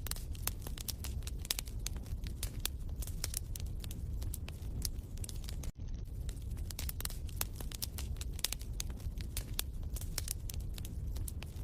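Wood fire crackling in a fireplace: a steady low rumble with frequent irregular sharp crackles and pops, and a brief dropout about six seconds in.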